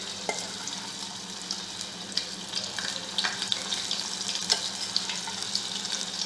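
Batter-coated soya chunks frying in hot oil: a steady sizzle with scattered crackling pops, growing a little louder as more chunks go in.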